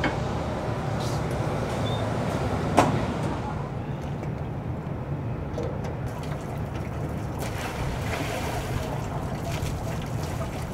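Steady rushing roar with a low hum, the ambience of a hot-glass studio with its furnaces running, and a single knock about three seconds in.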